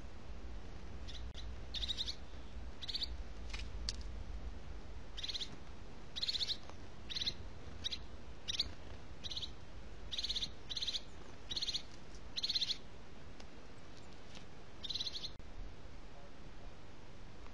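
A bird giving about a dozen short, high, rattling calls at uneven intervals, with pauses between bursts, over a steady low rumble.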